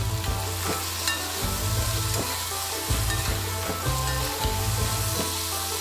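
Chopped bamboo shoots and onions sizzling in hot oil in a black iron kadhai, stirred with a spatula that scrapes against the pan at irregular intervals.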